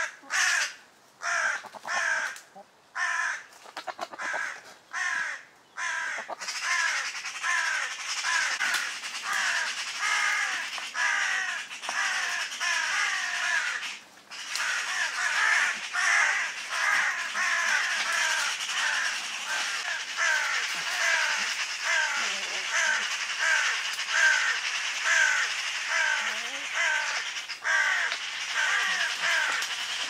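Bird calls: single harsh calls about once a second with quiet gaps between them, then from about six seconds in a dense, continuous chorus of many overlapping calls, with a hiss behind it.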